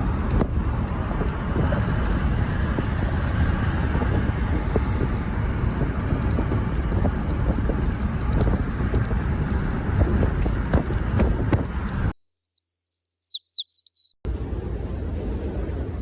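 Steady low rumble of wind and engine noise; about twelve seconds in it cuts out and a bird chirps alone for about two seconds, a quick run of high, falling notes, before the rumble comes back.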